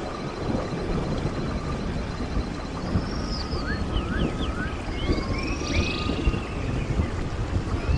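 Running stream water, a steady rushing hiss, with birds singing over it: a faint high trill at first, then a run of short chirps and whistles from a few seconds in until near the end.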